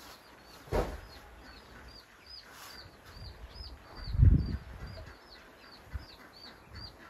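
A small bird chirping over and over, about three to four short high chirps a second. A sharp knock sounds about a second in, and a louder low thud around four seconds in.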